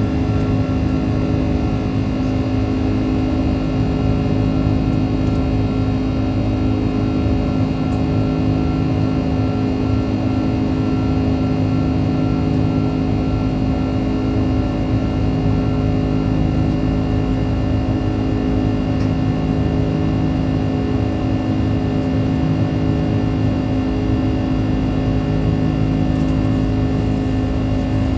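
Airbus A330's jet engines running at high power, heard inside the passenger cabin as a steady, loud drone with a constant hum over the airflow noise.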